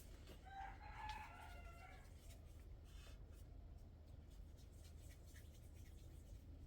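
A rooster crowing once, faint, a single call of about a second and a half starting half a second in.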